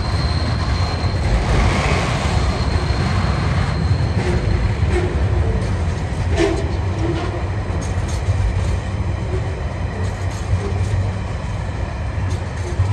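TasRail freight train rolling past slowly, held to 30 km/h by a heat restriction: a steady heavy rumble with wheels clicking over the rail joints. A thin high squeal is heard over the first few seconds, and there is one sharp clank about six and a half seconds in.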